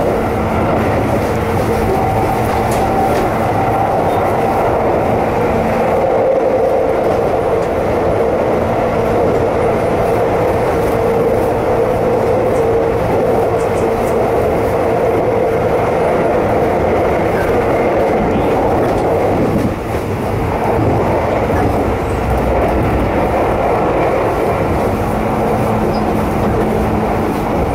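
Keisei electric commuter train running at speed, heard from inside the passenger car: a steady rumble of wheels on rail with the steady hum of the traction motors. The level dips briefly about twenty seconds in.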